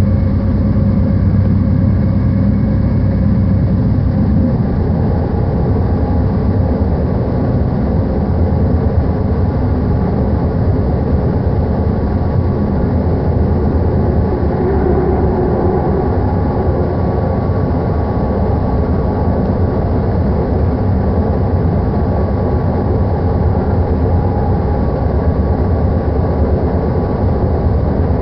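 BART train heard from inside the passenger car while running at speed: a steady, loud rumble of wheels on rail with a faint steady whine above it.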